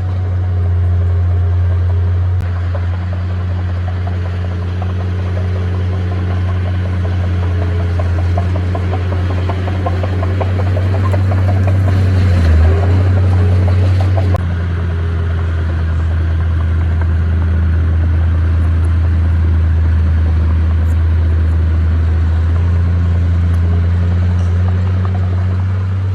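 Heavy diesel engine of a bulldozer running steadily with a constant low drone. About halfway through there is a stretch of rapid rattling.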